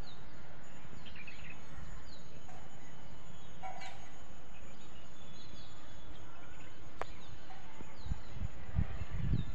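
Outdoor ambience of small birds chirping over a steady hiss, with short falling chirps every second or so. There is a brief call about four seconds in, a sharp click near seven seconds, and low rumbling bumps near the end.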